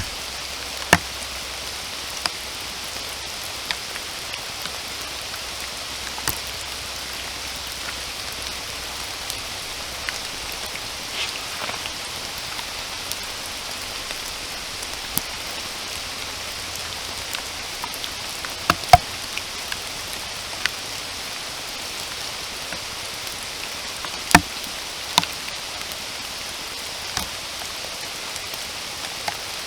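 Steady rain falling in a forest, an even hiss, with single large drops now and then landing close by as sharp taps. The loudest taps come about two-thirds of the way through.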